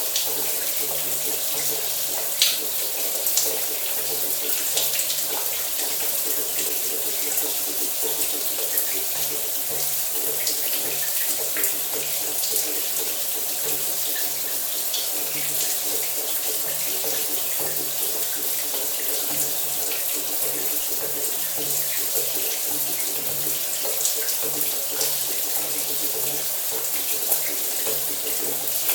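Shower running steadily: a constant hiss of falling water with small irregular splashes, over a faint low hum.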